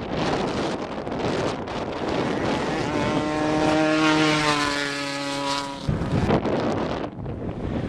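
A race vehicle's engine passing at speed, its pitch dropping slightly as it goes by, over wind buffeting the microphone. The engine note cuts off suddenly a little under six seconds in.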